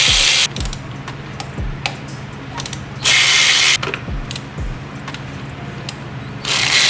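Hand ratchet with a T30 Torx bit clicking while backing out ignition coil bolts, with three short, loud bursts of rapid ratcheting and scattered single clicks between them.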